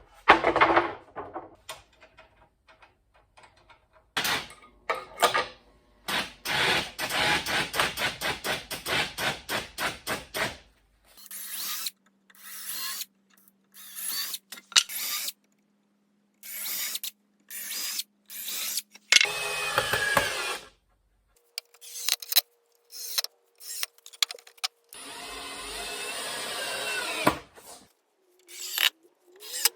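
Power tools working on wooden boards, heard in a string of short clips that start and stop abruptly. The longest stretch, from about four to ten seconds in, is a fast run of regular pulses.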